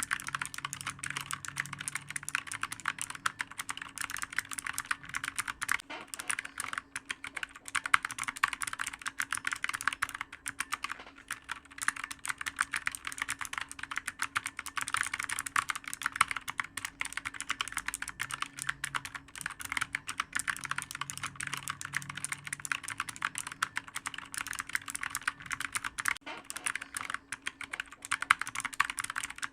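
Continuous fast typing on a clicky computer keyboard, many sharp keystrokes a second, with a couple of brief lulls.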